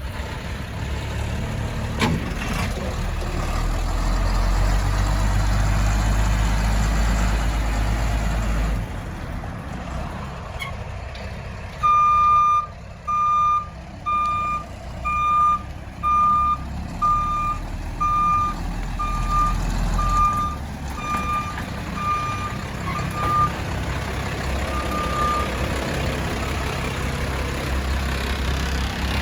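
A 1990 International 4700 dump truck's engine runs, louder for several seconds early on. From about twelve seconds in, its backup alarm beeps steadily about once every 0.6 s for some thirteen seconds, the sign that the truck is in reverse.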